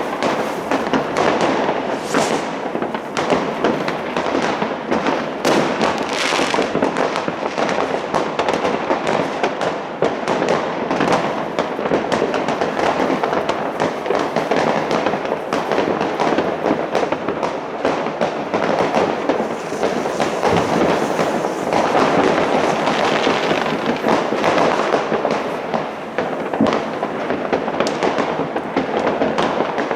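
Dense New Year's Eve fireworks and firecrackers going off continuously, a constant crackle of many overlapping bangs and pops.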